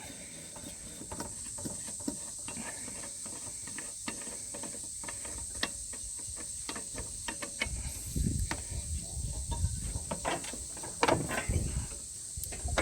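Scattered light clicks and knocks of hand tools working loose the nut and pulley on a ride-on mower deck, over a steady high insect drone. A few duller thumps come about two-thirds of the way through and again near the end.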